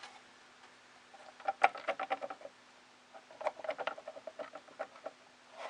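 Metal rod clicking and rattling loosely in a 3D-printer fitting, in two runs of quick light knocks: one about a second and a half in and a longer one from about three seconds in. The rattle comes from the rod wobbling in its fitting, which makes the printer hard to calibrate.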